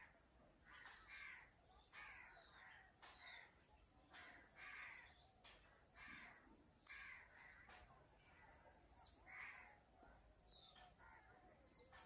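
Faint bird calls: harsh, noisy calls repeated over and over, roughly once a second, with a couple of short high chirps in between.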